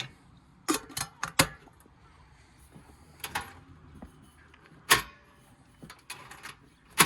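Short knocks and clicks of objects being handled: a quick cluster about a second in, then single sharper knocks spaced a couple of seconds apart.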